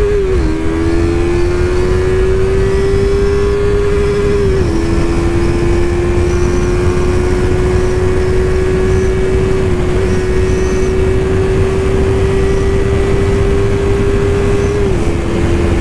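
Yamaha R3's parallel-twin engine held at high revs under hard acceleration, its note climbing slowly and dipping briefly at three upshifts, about half a second in, at about four and a half seconds and near the end. Heavy wind rush on the rider's microphone underneath.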